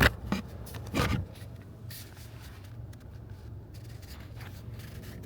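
A steady low rumble inside a car's cabin while the car crawls in traffic, with faint rubbing and handling noise close to the microphone. A brief louder sound comes about a second in.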